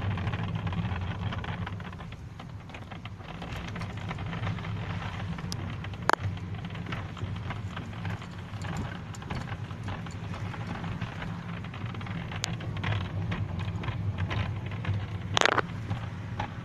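Hyundai i40's dashboard creaking in many small crackles and ticks over the steady low drone of the car on the move, heard inside the cabin, with a sharper crack about six seconds in and another near the end. The crackling comes from the front panel working loose at its upper part under the windscreen.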